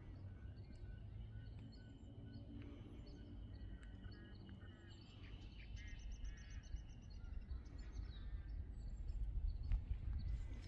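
Small birds chirping and calling, many short chirps and a thin held whistle through the middle, over a steady low rumble.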